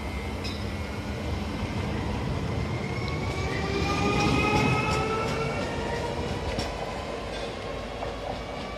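Régiolis regional multiple unit pulling away along the platform, its drive whine rising in pitch as it picks up speed, with a few sharp wheel-and-rail clicks. It is loudest midway, then fades as the train draws off.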